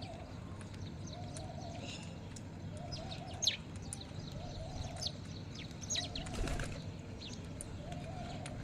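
Small birds chirping in short, high, scattered chirps, over a pigeon cooing in a low phrase repeated about every second or so.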